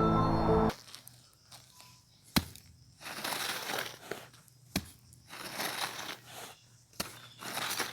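Foley of ice cracking under a heavy weight: three sharp snaps, a little over two seconds apart, with crinkling, crunching stretches between them.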